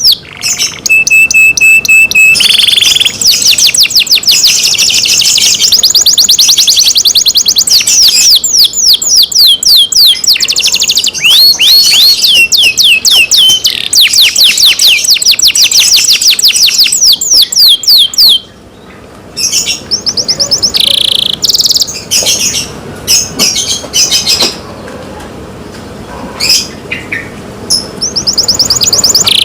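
Domestic canary singing: long, rapid trills of repeated sweeping high notes, with a short held whistle about a second in. The song breaks off at about 18 seconds, then goes on in sparser, quieter phrases.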